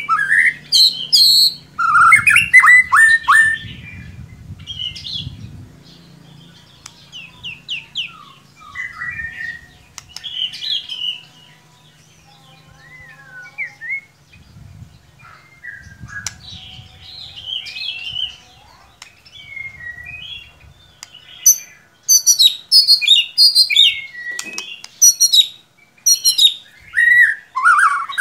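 White-rumped shama (murai batu) singing a varied song of whistled slurs, chattering notes and trills, a pancingan lure song for a caged shama. A fast run of sharp, loud notes fills the last third, and a faint low hum sits under the first half.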